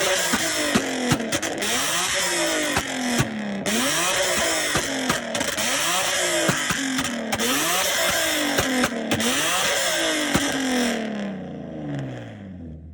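A car engine is revved hard about six times, each rev rising quickly and falling away slowly, with sharp exhaust pops between revs. Near the end it drops back to a low idle.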